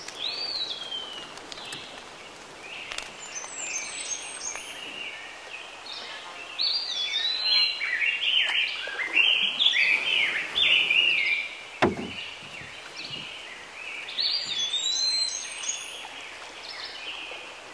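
Songbirds singing: many short whistled chirps and trills that are busiest in the middle. A single sharp click comes about two-thirds of the way through.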